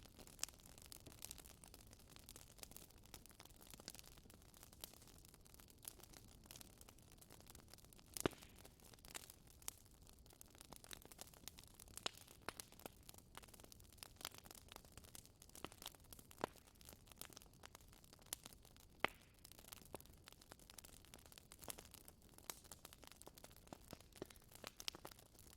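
Wood fire crackling in a fireplace: irregular small snaps and pops over a soft hiss, with a few sharper, louder pops.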